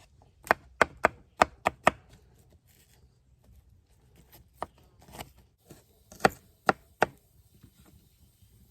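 Sharp chopping strikes: six in quick succession in the first two seconds, a few lighter ones, then three more about six to seven seconds in.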